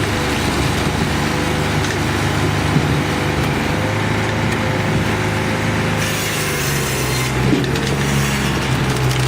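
Hydraulic firewood processor running at work on logs, its power unit and hydraulics humming steadily. About six seconds in, a high hiss joins for about a second.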